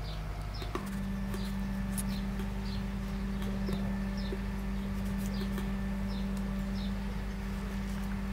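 A small bird chirping over and over, short falling notes roughly twice a second, over a steady low mechanical hum that sets in about a second in.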